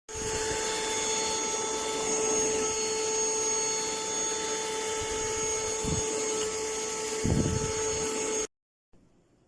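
Handheld dust-mite vacuum cleaner running with a steady motor whine, two low thumps in its second half, then cutting off suddenly near the end.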